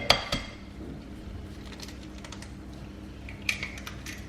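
Light clicks and taps of things being handled on a kitchen counter, with two sharper knocks right at the start and a short cluster of taps about three and a half seconds in.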